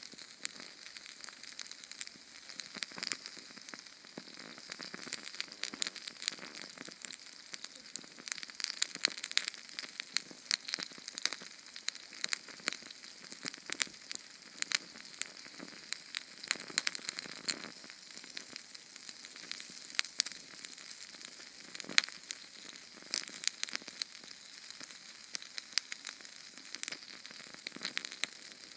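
Small Sterno canned-fuel flame burning: a steady hiss with dense, irregular crackles and pops.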